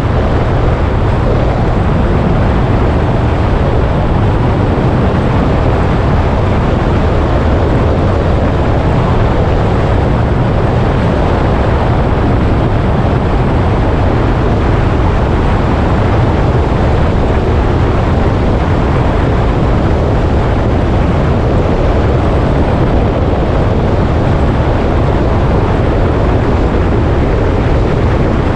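Motorcycle on the move, its engine running steadily under a loud, constant rumble of wind and road noise.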